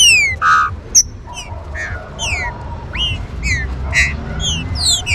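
Green-winged saltator (trinca-ferro) song: a run of loud, quick whistled notes that fall steeply in pitch, some overlapping, over a faint low rumble.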